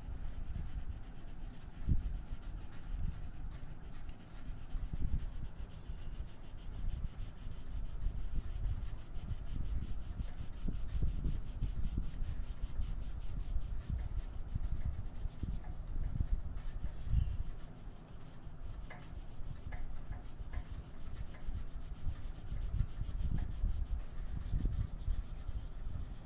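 Irregular colouring strokes rubbing on paper, with a few faint ticks about two-thirds of the way through.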